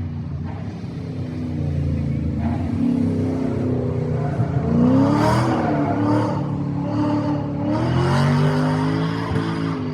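Rally car engine revving hard through a turn, its pitch climbing and falling with gear changes: a sharp rise about five seconds in and another near eight seconds.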